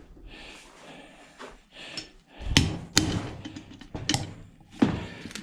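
Four sharp metal knocks and clanks, about half a second to a second apart in the second half, as a washing machine motor is handled and struck during teardown.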